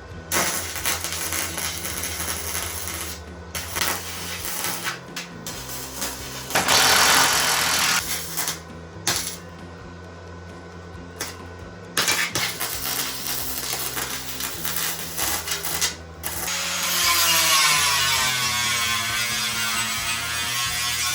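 A power tool running in bursts, with a whirring spin-up near the end, over background music with a steady bass line.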